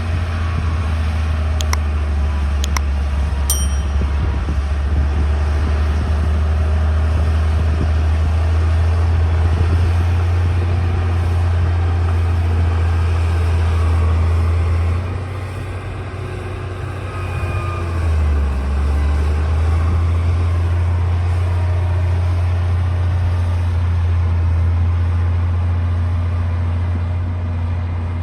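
D60 crawler bulldozer's diesel engine running steadily under load, easing off briefly about halfway through and picking back up a few seconds later. A few sharp clicks sound in the first few seconds.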